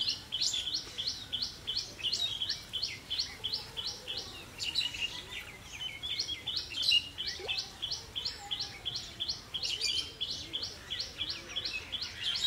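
A bird calling in a fast, steady run of short, sharp high notes, about four a second, with a brief pause about halfway through.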